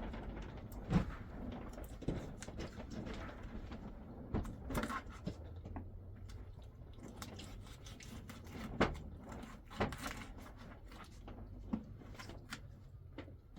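Irregular knocks and clatters, a few seconds apart, over a low steady rumble.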